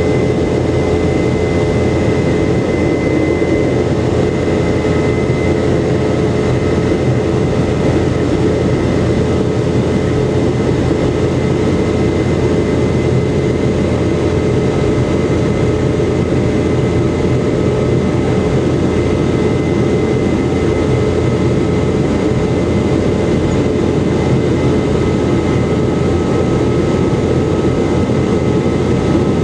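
Steady engine drone of a Boeing 717's Rolls-Royce BR715 turbofans heard from inside the passenger cabin in flight, a constant rumble with a thin steady whine above it.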